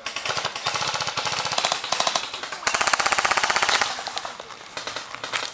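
Airsoft guns firing on full auto: a fast, rattling run of shots, loudest in a burst of about a second, a little past halfway in, at about fifteen shots a second.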